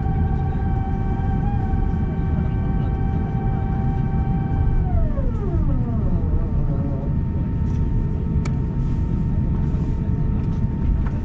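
Airbus A350 cabin noise during landing: a heavy, steady rumble under the whine of its Rolls-Royce Trent XWB engines. About five seconds in, the whine falls steeply in pitch as the engines spool down, while the rumble continues.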